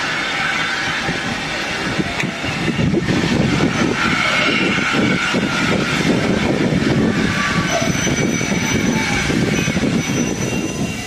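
Steam-hauled train of passenger coaches rolling slowly along the rails: a continuous rumble and clatter of wheels and running gear, with faint high wheel tones in the middle.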